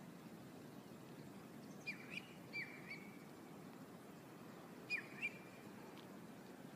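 Bird calls: a quick run of three or four short chirps about two seconds in and two more about five seconds in, over faint steady background noise.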